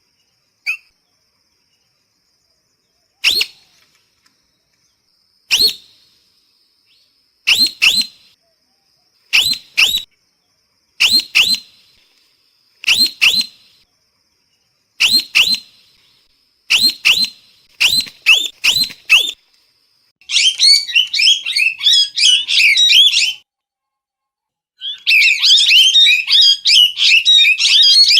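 Parrot calling: short, sharp, high calls, singly or in quick pairs and threes about every two seconds, then from about two-thirds of the way in two bouts of rapid, continuous chattering squawks separated by a brief pause.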